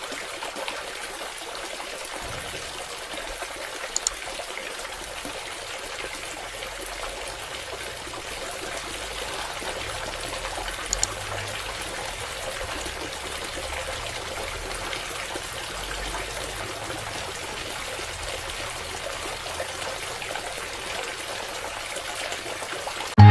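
Water pouring in a steady trickle from a small submersible pump's outlet, with a couple of faint clicks.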